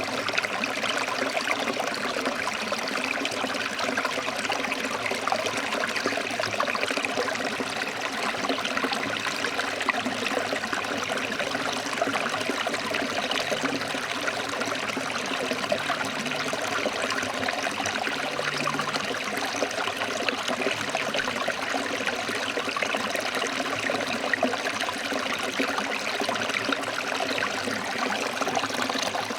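Forest stream flowing and splashing over rocks, a steady rushing water sound.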